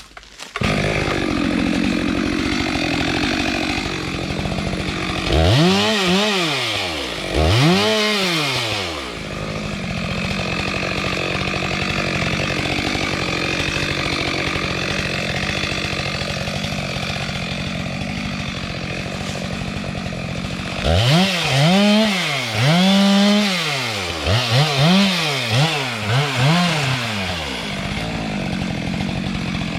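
Two-stroke chainsaw cutting a tree. It comes up to full speed about half a second in and runs steadily, with its engine speed dipping and swinging back up twice early on and several more times in quick succession past the two-thirds mark.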